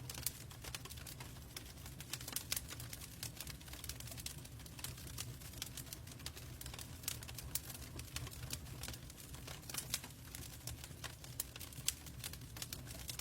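Log fire crackling in a fireplace: irregular sharp pops and snaps over a low steady rumble of burning.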